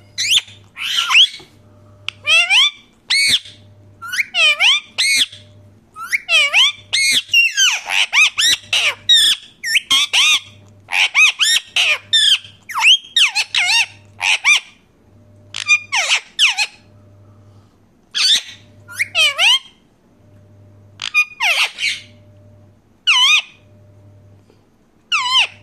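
Pet parrot squawking and chattering in quick runs of short, high calls that sweep up and down in pitch, with brief pauses between runs.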